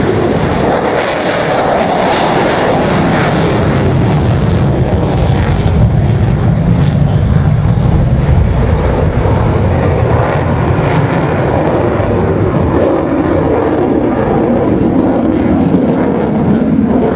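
F-35C Lightning II's Pratt & Whitney F135 jet engine in afterburner on a fly-by: a very loud, continuous rumble with sharp crackling. The crackle and hiss fade over the first six seconds or so, leaving a deep steady rumble.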